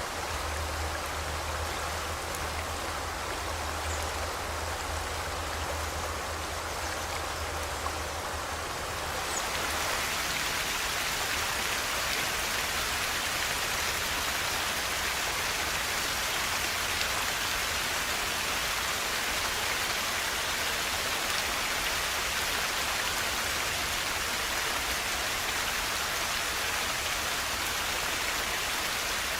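Rushing river water, a steady dense hiss. About nine seconds in the sound turns brighter and hissier as its low rumble drops away.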